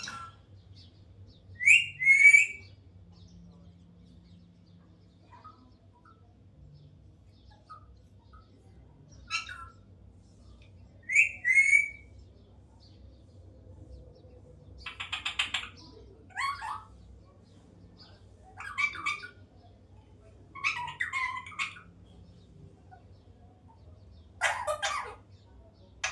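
Young Alexandrine parakeet giving short squawking calls at irregular intervals, some in quick pairs and some harsher and raspier.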